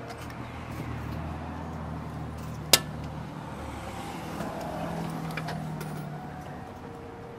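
A vehicle engine running, its pitch rising a little twice, with one sharp click near the middle.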